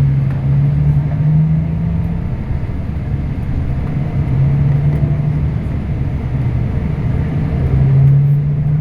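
Scania K340IB bus's diesel engine running as the bus drives, a low drone that rises and falls in pitch a few times over road noise.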